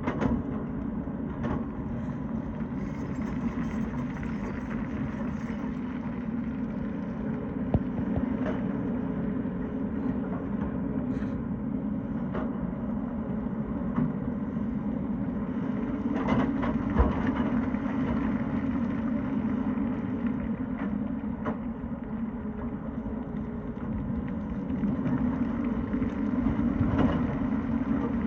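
Tata Hitachi hydraulic excavator's diesel engine running steadily while it works. Occasional sharp knocks sound over it, a cluster of them a little past halfway.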